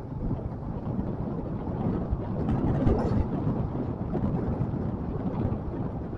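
Motorcycle on the move: wind buffeting the microphone over engine and road noise, swelling a little about three seconds in.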